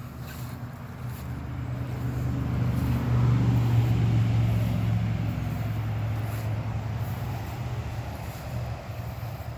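A passing vehicle's engine hum, growing louder to a peak about three to four seconds in and then slowly fading away.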